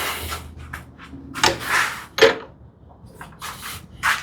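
Clamps being set and tightened on a freshly glued wooden drawer box: an irregular run of knocks, with scraping or rubbing sounds about one and a half seconds in and again past three seconds.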